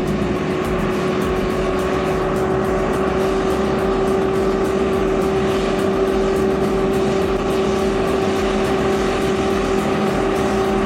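Heavy vehicle engine running steadily under load, a loud drone whose pitch creeps up slowly.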